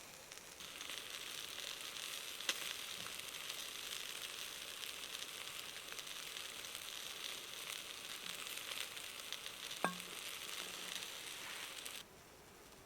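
Meat sizzling on a shichirin charcoal grill: a steady frying hiss with a couple of sharp pops, cutting off suddenly near the end.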